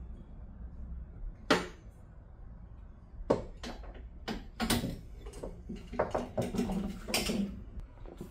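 Metal tools and parts clinking and clattering as they are handled during car suspension work: one sharp clack about a second and a half in, then a run of clanks and rattles from about three seconds in until near the end.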